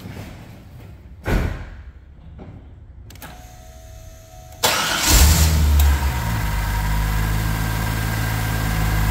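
A thump about a second in, then a short steady tone. About four and a half seconds in, the 1997 Corvette C5's 5.7-litre LS1 V8 starts, revs up briefly and settles into a steady idle.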